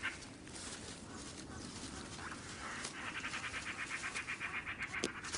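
Wild outdoor ambience with a small animal's rapid, evenly pulsing chirring call. The call comes in about three seconds in at roughly ten pulses a second, and a few sharp clicks follow near the end.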